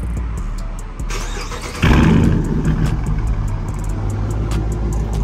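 Straight-piped Dodge Challenger R/T's 5.7-litre Hemi V8 exhaust. It surges loudly about two seconds in, as if firing up or being blipped, then settles into a steady, deep idle rumble.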